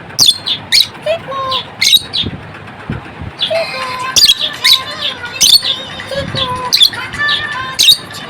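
Lovebirds chattering: sharp, shrill chirps in quick clusters, with a lull of about a second and a half a couple of seconds in.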